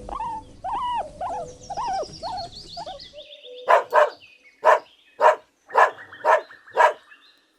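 Guinea pigs squeaking: first a run of short squeaks that rise and fall in pitch, then, in a second recording from about three seconds in, a string of short sharp wheeks about two a second.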